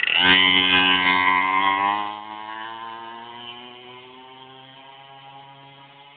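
Dirt bike engine revving up hard, then holding a steady note that fades over several seconds and sinks slightly in pitch as the bike rides away.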